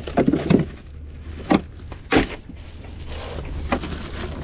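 Several knocks and thumps, the loudest about a second and a half and two seconds in, over a steady low rumble.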